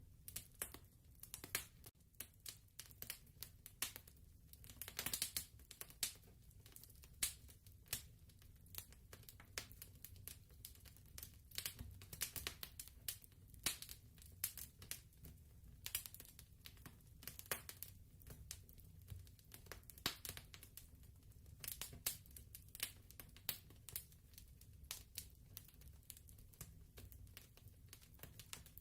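Fireplace crackling softly: irregular small pops and snaps over a low, steady rumble.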